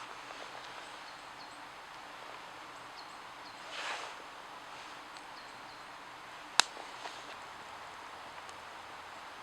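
Outdoor ambience: a steady hiss with faint, short bird chirps, a soft rush about four seconds in, and one sharp crack about two-thirds of the way through.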